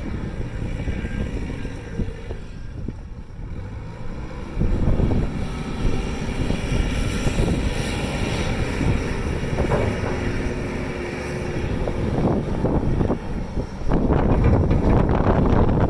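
Merlo telehandler engine running while wind buffets the microphone with a heavy rumble. The wind gusts louder about four and a half seconds in and again near the end.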